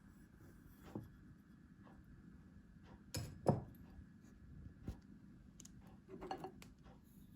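Faint, scattered clinks and knocks of kitchenware as dry ingredients are added to a mixing bowl, with the loudest knocks about three seconds in.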